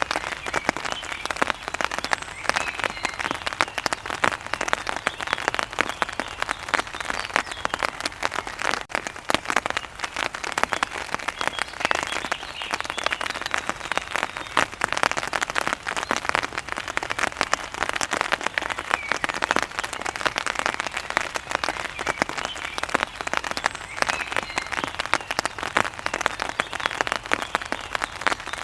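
Steady rain falling on a hard surface, a dense patter of countless drops with no let-up.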